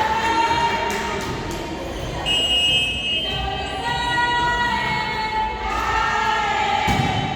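Several voices singing long held notes together, choir-like, each note lasting a second or more at overlapping pitches.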